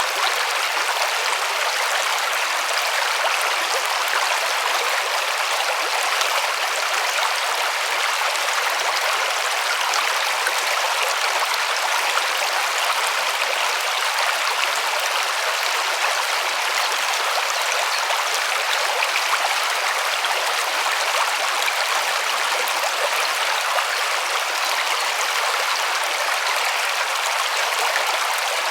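River water rushing and splashing over stones, a steady, even flow.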